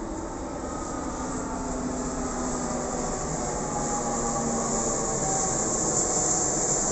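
Aircraft engine noise growing steadily louder as the plane approaches: a steady rush with a high hiss and faint tones that slowly slide in pitch.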